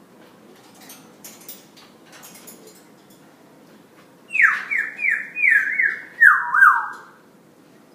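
Parrot whistling a quick run of about seven notes, each sliding down in pitch, the run stepping gradually lower over about three seconds. Faint clicks come first.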